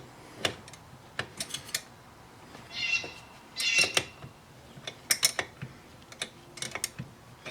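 Metal parts and hand tools clicking and clinking on a steering column while the lock plate tool is worked to free the lock plate retainer. Two short squeaks come about three and four seconds in.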